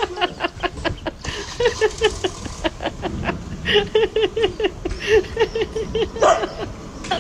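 A dog yipping in quick runs of short high calls, several a second, with brief pauses between the runs.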